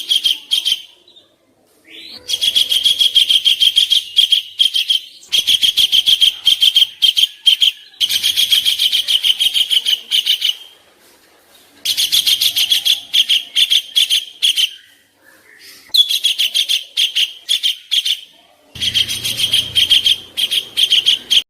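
Recorded songbird song: about six phrases of two to three seconds, each a fast, high-pitched run of repeated notes, with short pauses between. It is birdsong played as masteran, training audio for competition songbirds to copy.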